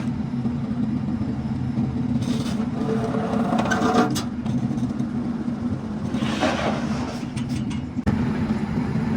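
An engine running steadily at an even speed, with a few brief noisy sounds over it about three and six seconds in.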